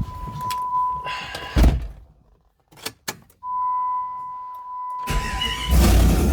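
A vehicle's steady warning beep sounds and a thump comes about a second and a half in, followed by a few clicks and the beep again. About five seconds in, the 1997 Jeep Grand Cherokee's 5.2L V8 cranks and fires into a loud run: its first start after a top-end rebuild with new head gaskets.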